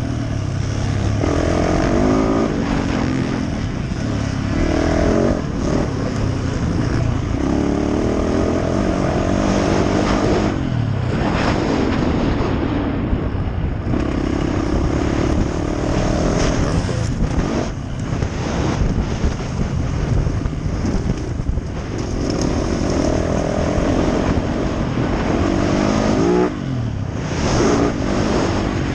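Yamaha YZ450F four-stroke single-cylinder dirt bike engine being ridden hard, revving up and backing off over and over as the throttle is worked, with brief throttle chops about eleven seconds in, around thirteen seconds, and near the end.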